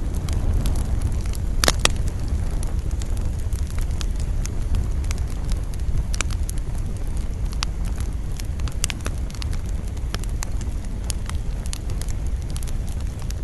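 Wood campfire crackling and popping in irregular sharp snaps, the loudest about two seconds in, over a steady low rumble of wind.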